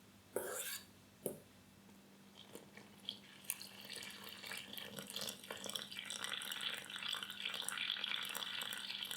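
A couple of light knocks of kitchen utensils, then a steady stream of water pouring into a bowl, starting about two and a half seconds in.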